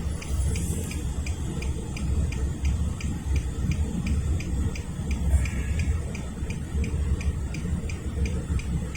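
Low, steady diesel rumble of an arriving freight train's locomotives, with a steady fast ticking over it, about five ticks a second.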